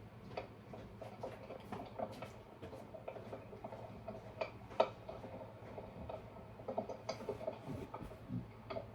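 Rain from a field audio recorder, played back through a speaker: scattered, uneven taps of raindrops striking near the microphone over a faint hiss and a steady low hum.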